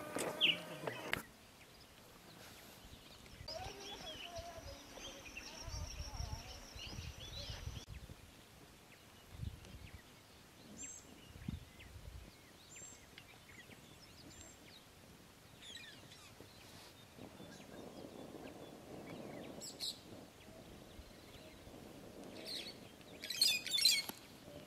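Quiet natural ambience with scattered bird chirps and calls, growing busier for a moment near the end.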